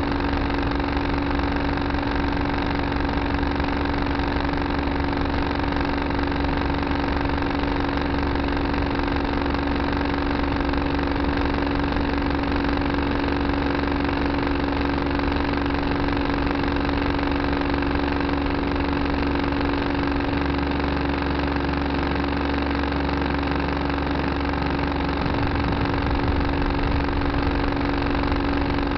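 Tractor engine running steadily, heard from the cab with a constant, even drone.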